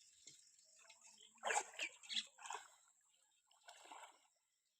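Water splashing and sloshing in short bursts, a cluster about a second and a half in and a fainter one near the end.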